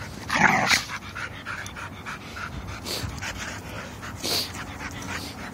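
A puppy and an older dog play-fighting, panting and scuffling, with a louder burst of noise about half a second in and another just past four seconds.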